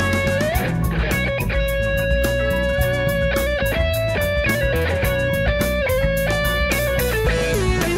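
Eastman SB59 solid-body electric guitar playing a lead line of long sustained notes with bends and slides, over drums and bass.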